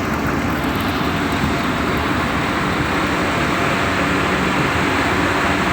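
A loud, steady engine noise with a low rumble, running evenly without change.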